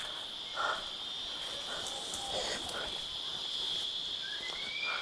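Steady high-pitched drone of insects chirring without a break, with a few faint distant sounds and a faint short rising whistle near the end.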